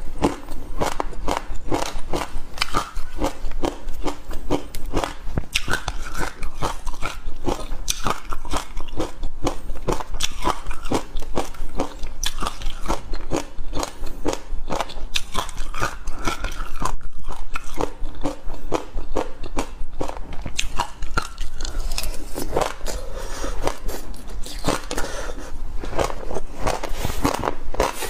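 Frozen passion fruit coated in black sesame seeds being bitten and chewed: a dense, unbroken run of crisp crunches.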